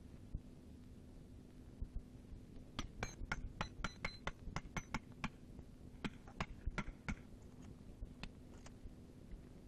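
A quick, irregular run of light clinks and taps from hard objects striking, over a steady low hum. The taps come about four or five a second for a couple of seconds, then a few more spaced out.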